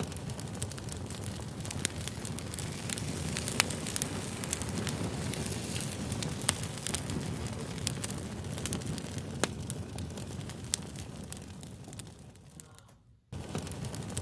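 Wood fire crackling, a steady low rush with many sharp pops. It fades away about twelve seconds in and starts again abruptly a second later.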